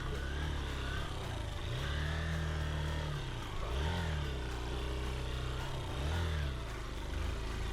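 Motorcycle engine revved up and down about four times as the bike is pushed through sticky mud that clogs its back wheel.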